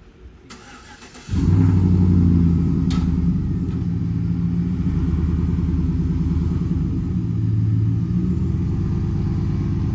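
A vehicle engine starts abruptly about a second in and settles into a loud, steady, low running idle, with slight swells in engine speed.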